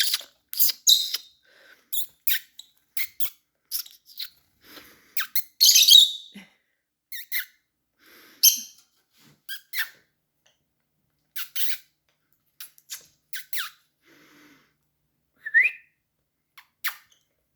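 A person making bird-like squeaking noises by sucking air through the teeth: a string of short, sharp high squeaks at irregular intervals, a few of them longer and louder, with one short rising chirp near the end.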